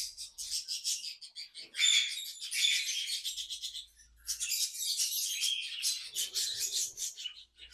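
A flock of small aviary parrots chirping and chattering, many rapid high-pitched calls overlapping, with a short break about four seconds in.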